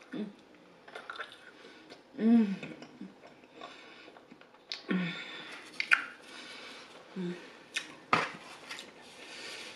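Close-up chewing and wet mouth sounds of a woman eating a slice of garlic pizza, broken by several short hummed "mmm"s of enjoyment, the loudest about two seconds in. A sharp click a little after eight seconds, as the slice is put down.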